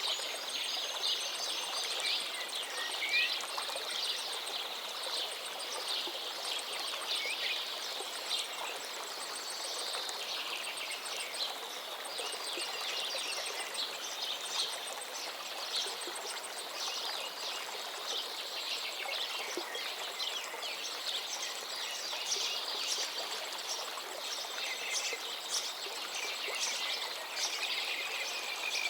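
Woodland songbirds singing in a dense chorus of quick chirps and trills over the steady rush of a forest river.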